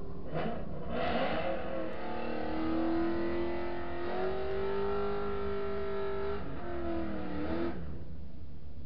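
Infiniti M56's 5.6-litre V8 heard from inside the cabin at low speed: its revs rise, hold at a steady raised pitch for a few seconds, dip, rise briefly again and fall back to idle near the end.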